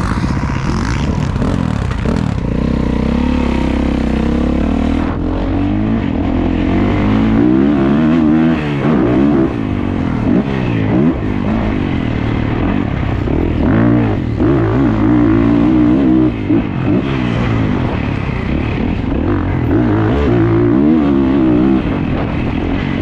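Dirt bike engine revving hard and dropping off again and again, its pitch climbing and falling every second or two as the throttle is worked around a motocross track.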